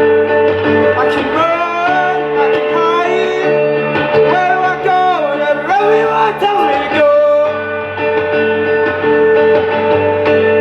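Live band music led by guitar: sustained chords under a lead line that bends and slides in pitch from about a second in until about seven seconds, then the chords carry on alone.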